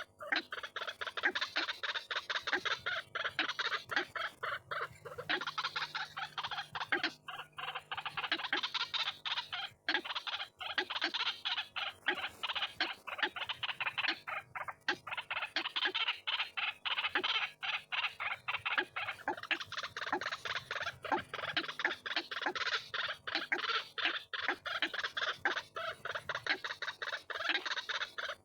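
White-breasted waterhen calling: a dense, unbroken run of rapid, harsh notes.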